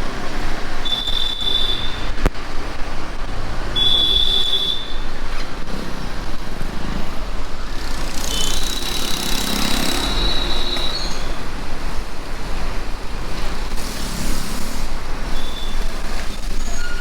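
Street traffic noise heard from a moving bicycle, with a low rumble of wind on the microphone. Short high-pitched tones sound several times, the longest lasting about two seconds midway, and a single sharp crackle sounds about two seconds in.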